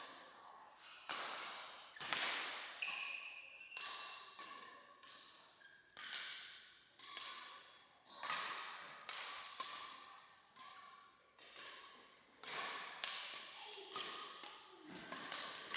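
Badminton rally: rackets hitting the shuttlecock roughly once a second, each sharp hit echoing in a reverberant hall, with a few short squeaks in between.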